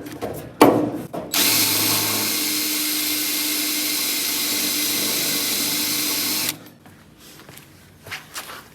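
Electric drill boring into the steel door hinge bracket, running steadily for about five seconds before stopping abruptly. A couple of knocks come just before it starts.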